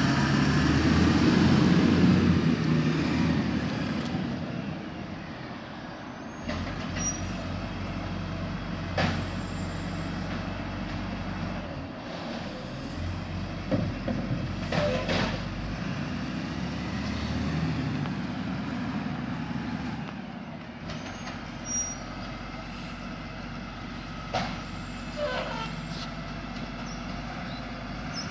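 Garbage truck's diesel engine running, loudest in the first few seconds and then quieter, with a few short sharp noises from the truck now and then.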